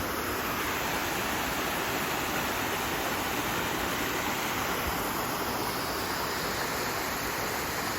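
Steady rush of a stream of fast-running water, with no breaks.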